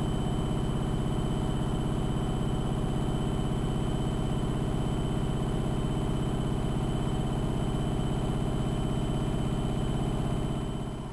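AEG Electrolux Lavamat L6461 washing machine running with a steady hum, which fades and stops about ten seconds in.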